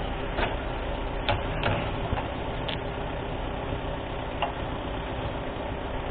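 Diesel engine idling steadily, with a handful of short sharp clicks and knocks scattered over it.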